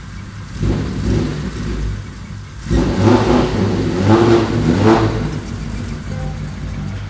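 Racing-tuned Nissan S20 2.0-litre straight-six of a Hakosuka Skyline GT-R, revved in several short blips and then running more steadily.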